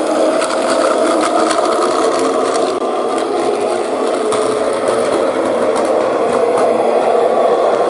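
Battery-powered Plarail toy train running on plastic track: its small electric motor and gearbox whirring steadily, with light clicking from the wheels over the track.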